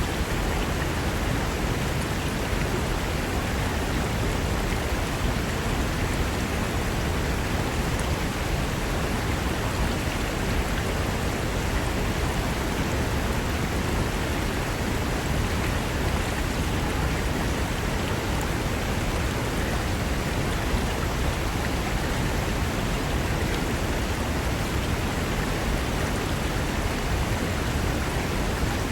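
Mountain river rushing over rocks, a steady, unbroken wash of water noise.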